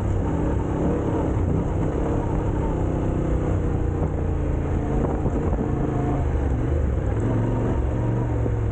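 Motorcycle engine running steadily under way, its pitch wavering slightly.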